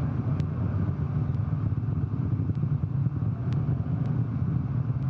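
A steady low rumble with a few faint scattered clicks.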